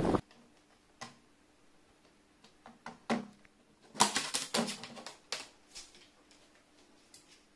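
Scattered sharp taps and clicks on a hard surface in a small room, a few single ones and a quick cluster of several about four seconds in.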